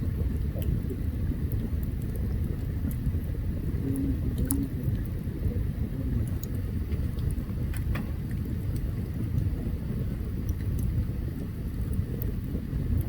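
Open campfire burning: a steady low rumble with scattered sharp crackles and pops, one of the louder pops about eight seconds in.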